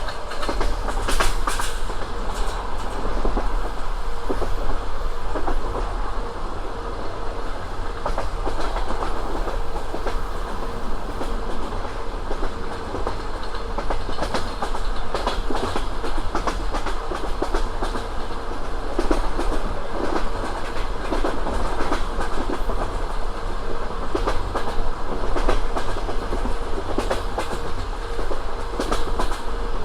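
Passenger train running at speed, its wheels clacking over the rail joints in a continuous clickety-clack over a steady rumble.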